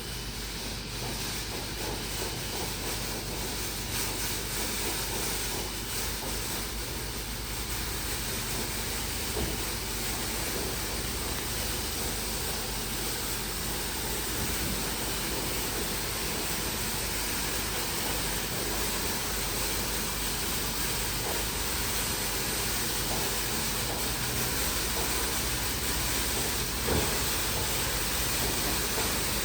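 Christ Vega C170 rollover car wash machine running a wash stage: a steady, loud rushing hiss of water jets and machinery.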